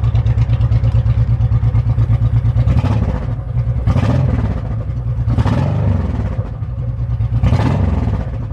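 Honda VTX1800 1800 cc V-twin engine idling with an even, loping pulse, blipped four times with the throttle so it briefly revs up and drops back to idle.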